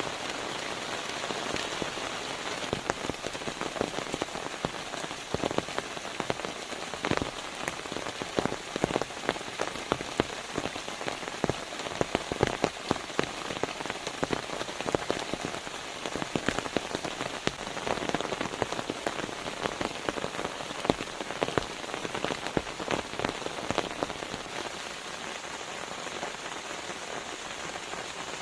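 Steady rain falling, with many irregular sharp drop impacts over an even hiss.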